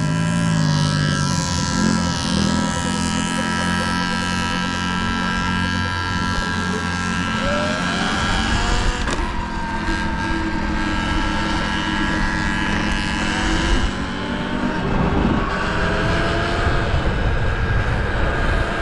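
Dirt bike engines running at riding speed, holding steady for long stretches with the pitch rising and falling a few times.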